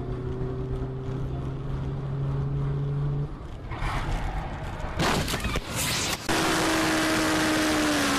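Car driving noise as heard by a dashcam inside a car: a steady engine hum with road noise. Around five seconds in come several sharp knocks, then the sound jumps to a louder, even road rush with a slowly falling engine tone.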